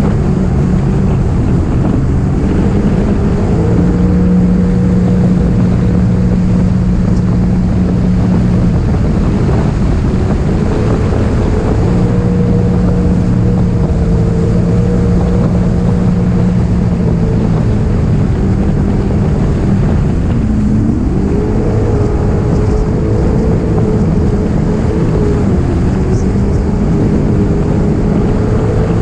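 Jet ski engine running steadily at speed, with wind buffeting the microphone; about 21 seconds in the engine note rises and holds higher.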